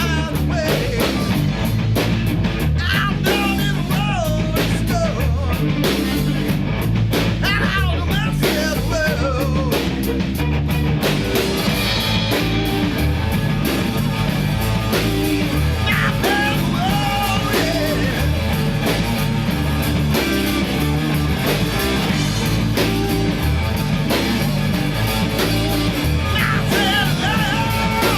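Rock song played by a three-piece band: electric guitar, bass and drum kit, with a sung vocal line that comes and goes.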